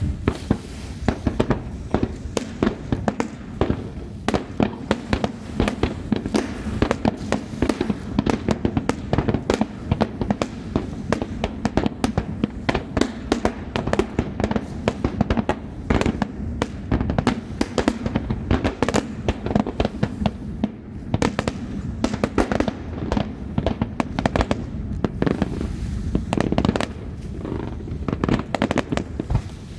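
Fireworks display in a dense barrage: sharp bangs and crackles several times a second over a low rumble, with no pause.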